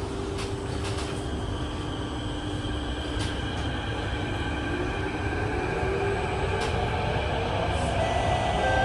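Inside a CT251 metro car running in tunnel: a steady low rumble of wheels on rail, with the traction motors' whine climbing in pitch from about halfway through as the train accelerates, and a few light clicks.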